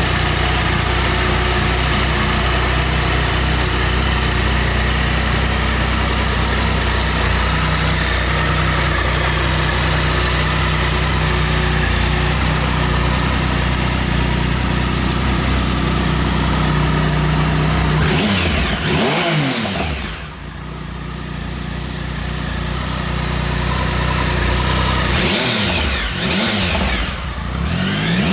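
Triumph Sprint ST 1050's three-cylinder engine idling steadily, then revved up and let fall back, once about eighteen seconds in and again a few seconds before the end.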